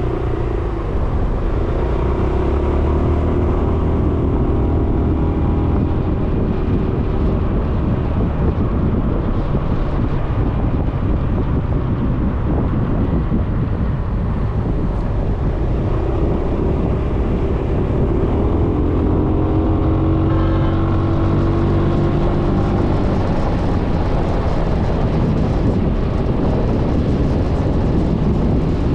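Suzuki Burgman 400 scooter's single-cylinder engine running on the move, over a steady rush of wind and road noise. The engine note stands out twice, climbing with the throttle the second time.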